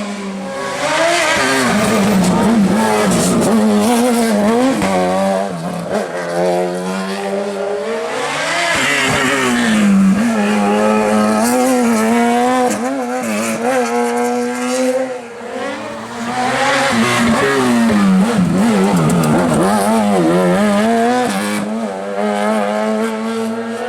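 Racing car engines at high revs, loud throughout, the pitch rising and dropping again and again with gear changes.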